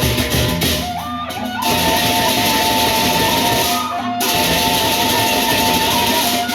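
A gendang beleq ensemble playing a gending: large drums and dense, continuous cymbal clashing under a sustained melodic line. The cymbals drop out briefly about a second in and again about four seconds in.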